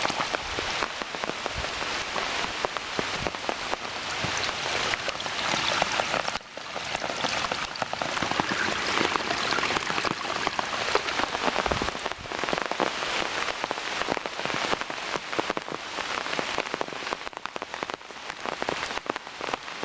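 Heavy rain falling, a dense patter of drops over the steady rush of rain-swollen water flowing at the pond.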